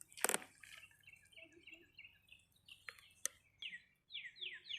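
A songbird singing a fast series of down-slurred whistled notes, about three a second, starting about four seconds in, with softer scattered chirps before it. A single sharp click just after the start is the loudest sound, with two fainter clicks around the middle.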